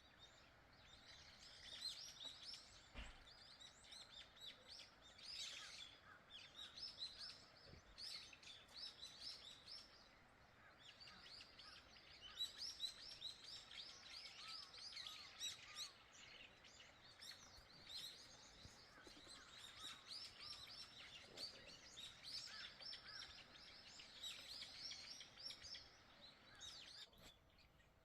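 Faint birdsong: small birds chirping and twittering in quick runs of high notes, almost without pause, over a faint background hiss.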